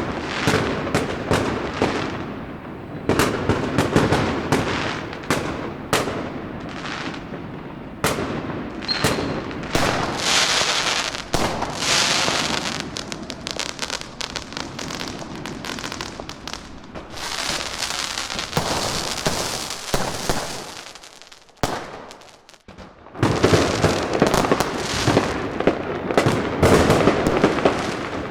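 Fireworks and firecrackers going off in rapid, irregular strings of sharp bangs, with stretches of hissing crackle near the middle. A brief lull comes about three-quarters of the way through, then the bangs pick up again densely.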